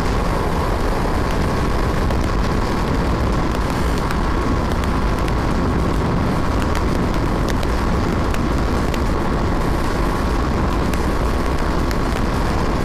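BMW G 310 R's single-cylinder engine held at full throttle in fifth gear near its top speed, a steady high-revving run with a constant thin whine over heavy wind rush on the microphone.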